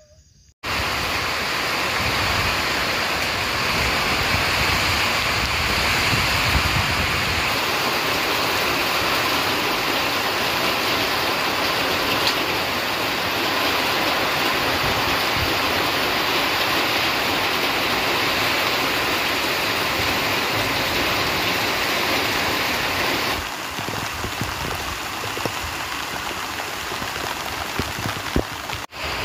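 Heavy rain falling, a loud, steady hiss. It starts abruptly just after the beginning and shifts slightly in tone about 23 seconds in.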